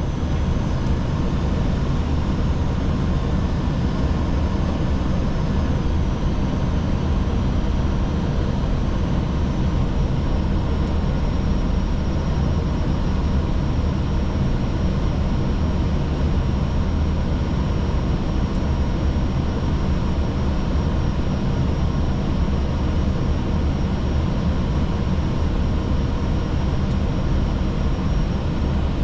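Steady flight-deck noise of an Airbus A320 on final approach: air rushing past the cockpit and the low hum of the engines and air conditioning, unchanging throughout, with a faint high steady tone through the latter part.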